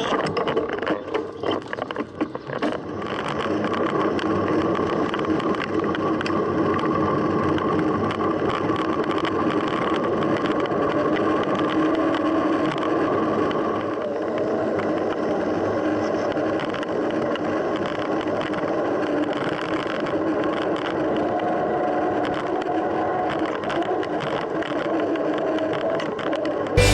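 A mountain bike being ridden, heard close up: steady tyre and wind noise with frequent small rattles and knocks from the bike.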